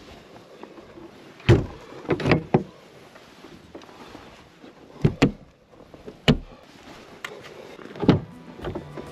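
Scattered knocks and clunks of gear being handled while a truck camper is packed up: about eight sharp hits in small clusters, over faint steady background noise.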